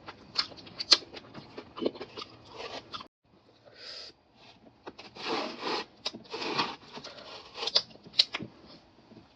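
Chewing and crunching of crispy fried chicken, close to the microphone: irregular crackles and clicks, with a short pause about three seconds in.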